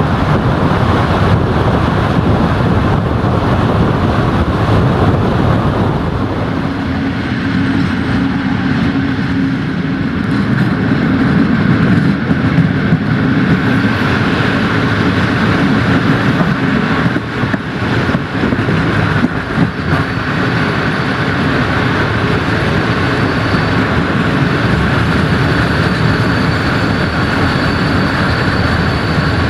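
Passenger train coaches running along the track, a steady rumble of wheels on rail with air rushing past an open window. A few sharp clacks come a little past the middle, and a faint high squeal joins in about two-thirds through.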